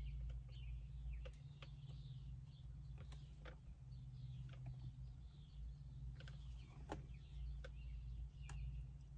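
Faint bird chirps repeating over a steady low hum, with a few light clicks and taps scattered through.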